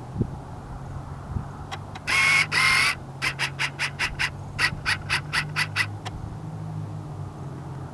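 A bird giving harsh calls: two loud drawn-out calls, then a run of about a dozen short, sharp calls at roughly four a second. A steady low hum runs underneath.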